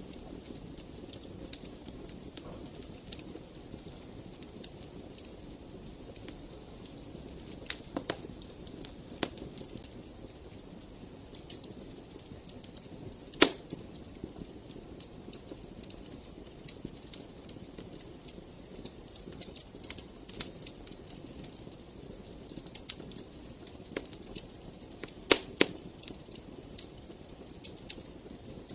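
Wood fire crackling in a fireplace: a steady run of small clicks and snaps over a low hiss of flame, with one sharp, louder pop about halfway and two pops in quick succession near the end.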